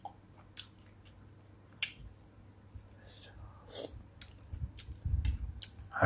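A person chewing food close to the microphone, with scattered small mouth clicks and smacks, and a few soft low knocks near the end as the bowl and spoon are handled.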